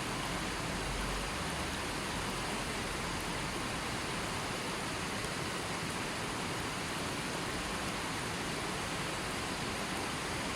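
River water flowing steadily, an even, unbroken rush of noise with no other sounds.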